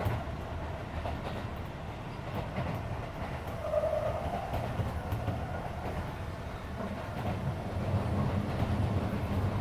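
Running noise inside a Keisei 3400-series electric train car at line speed: a steady rumble with wheels clicking over rail joints, under the hum of the car's air conditioning. The sound grows somewhat louder near the end.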